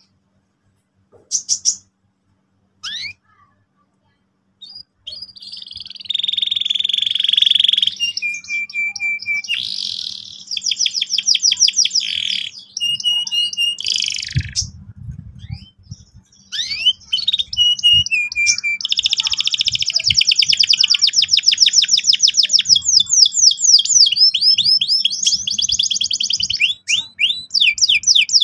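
Canary singing. A few short chirps come first, then from about five seconds in an almost unbroken song of fast rolling trills mixed with held whistled notes.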